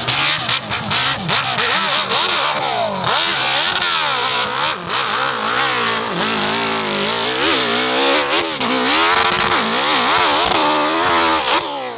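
Hill-climb dirt bike engine revving hard, its pitch rising and falling again and again as the throttle is worked.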